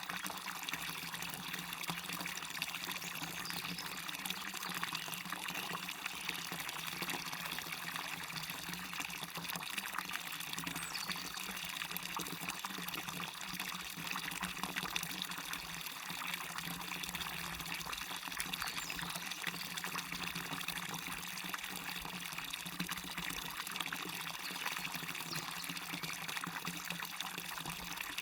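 Small waterfall splashing and a stream running over rocks, a steady unbroken rush of water.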